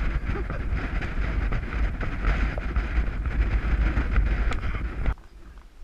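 Wind buffeting a helmet-mounted action camera's microphone, a heavy rumbling rush that cuts off suddenly about five seconds in.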